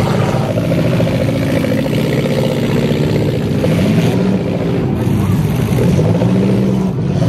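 Engines of several compact demolition derby cars running and revving hard, their pitch rising and falling as the cars shove into one another.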